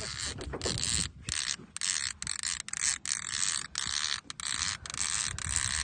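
Fishing reel cranked in quick spurts, a ratcheting, whirring rasp that stops and starts many times, as line is wound in on a sturgeon.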